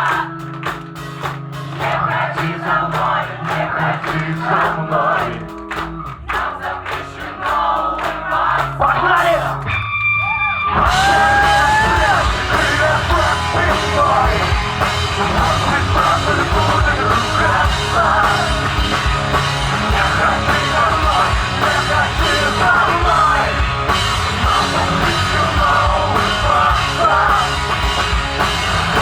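A rock band playing live: a sparser passage of drums and bass, a brief break about a third of the way through, then the full band comes back in louder with singing.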